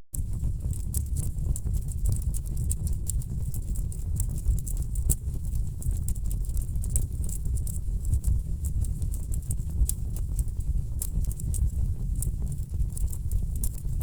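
Wood fire crackling in a fireplace: a steady low rumble of burning logs with frequent, irregular sharp pops and snaps. A split-second dropout at the very start.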